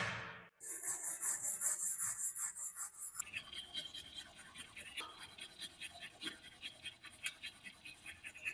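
A sharp hit right at the start that dies away within half a second, then a hand tool scraping a rusty metal part in rapid strokes, several a second; the strokes turn fuller and harsher about three seconds in.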